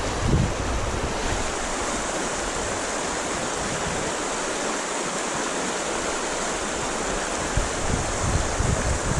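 Steady rush of flowing creek water and wind, with strong wind gusts buffeting the microphone around the start and again in the last second or two.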